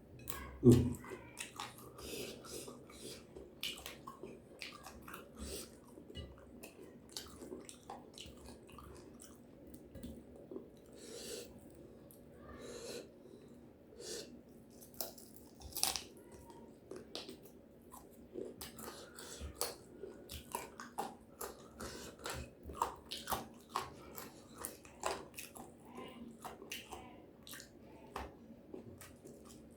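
A person chewing and biting food close to the microphone, with many small irregular crunches and clicks. A single low thump about a second in is the loudest sound.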